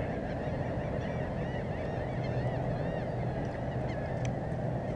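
A flock of waterbirds calling in a continuous chorus of many short, overlapping calls, over a steady low rumble.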